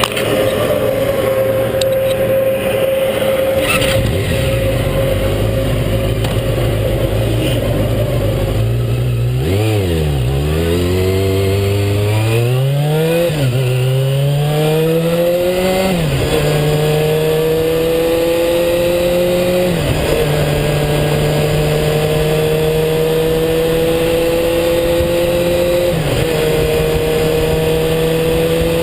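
Motor vehicle engine heard from on board, running steadily and then accelerating, its pitch rising and briefly dropping at each of about five gear changes.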